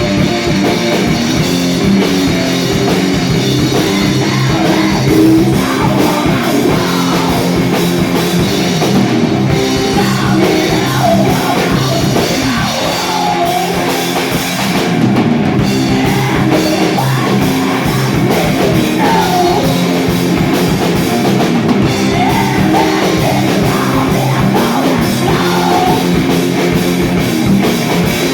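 A rock band playing live, with a drum kit and guitar going steadily throughout.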